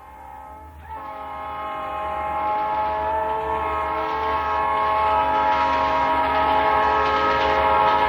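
Train horn sounding one long, steady multi-tone blast that grows louder as the train approaches, over the low rumble of the locomotive.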